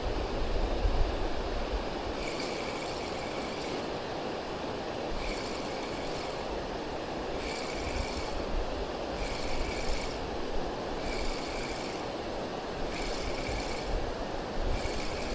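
Steady rush of water pouring over a weir, with wind buffeting the microphone in gusts. Over it, a short whirring of a spinning reel being wound in, repeated every second or two as the lure is retrieved in short pulls.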